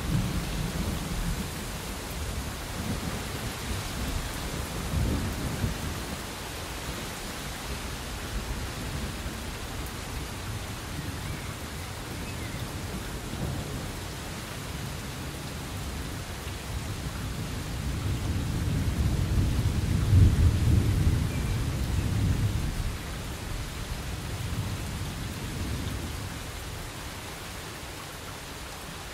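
Steady rain with low rumbles of thunder; one long rumble builds and peaks about two-thirds of the way through, then dies away.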